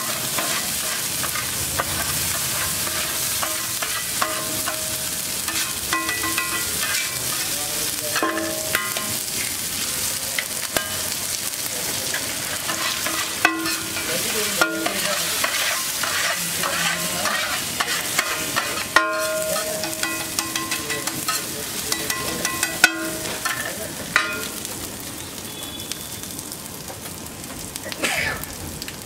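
Eggs and masala sizzling in oil on a large flat metal griddle (tawa) while a metal spatula scrapes, chops and taps against the griddle, giving ringing metallic scrapes and a few sharp clicks over the steady sizzle. The sizzle is quieter for the last few seconds.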